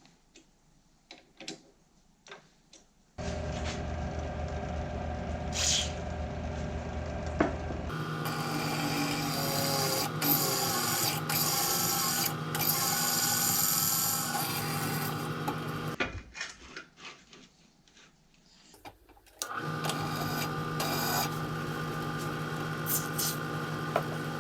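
Faint clicks, then an electric power tool starts about three seconds in and runs steadily with a rasping cutting noise. It stops briefly around two-thirds of the way through and then starts again.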